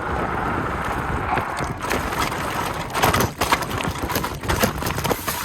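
Electric scooter speeding down a steep, rough hill: wind rushing over the microphone, with the tyres and frame rattling and clattering in many sharp knocks over the uneven surface.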